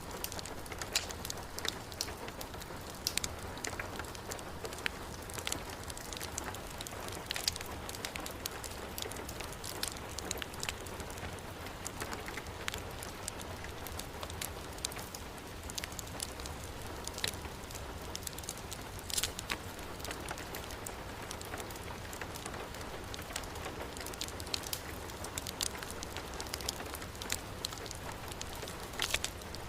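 Heavy rain falling steadily, with a wood fire crackling: an even hiss scattered with sharp little pops.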